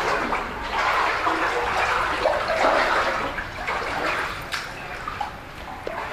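Water rushing and splashing, loudest in the first few seconds and easing off after about four seconds, with a few small knocks.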